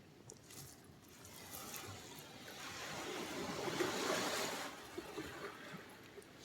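Sea surf: a wave washes in, swelling to a peak about four seconds in, then draining back.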